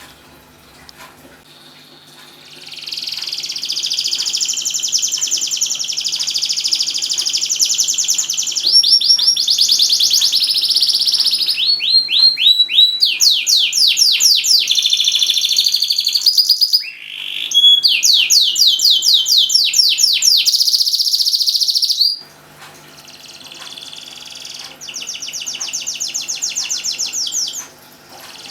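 Domestic canary singing: long rolling trills and fast runs of rapidly repeated notes, starting about two seconds in, breaking off briefly past the middle and stopping well before the end, then a shorter, quieter phrase near the end.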